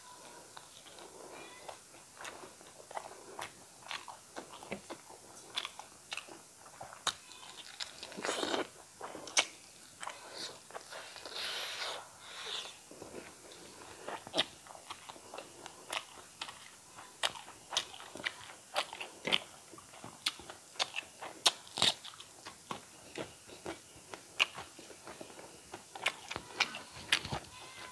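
A person chewing crunchy fried food close to the microphone: irregular crisp crunches and wet mouth clicks, with no talking.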